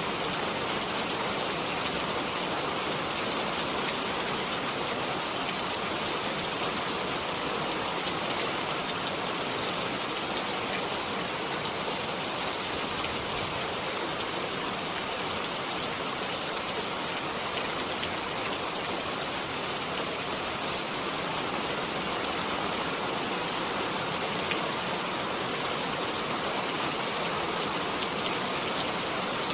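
Steady rain falling, a dense even patter of drops hitting a surface with no change in strength.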